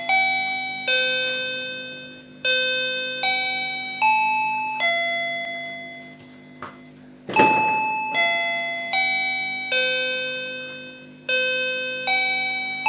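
Wireless calling-bell (doorbell) unit playing its electronic chime tune, a run of bell-like notes about one every 0.8 s, each ringing and fading. The tune breaks off about six seconds in, with a click and a short thump, then starts again. The owner finds the bell's sound far too low.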